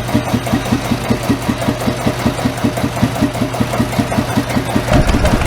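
A small stationary engine running steadily with an even chugging beat of about eight strokes a second over a constant low hum.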